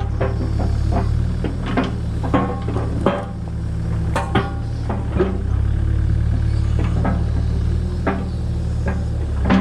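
Takeuchi TB285 compact excavator's diesel engine running steadily, with irregular sharp clanks and knocks of boulders against the steel bucket and each other as rip-rap is moved.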